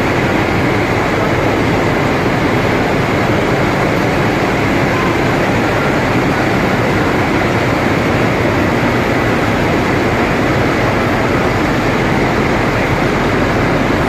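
Steady, unchanging noise of a vehicle in motion.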